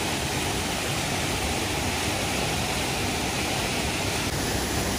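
Running water rushing steadily, like a small waterfall or stream in an animal enclosure.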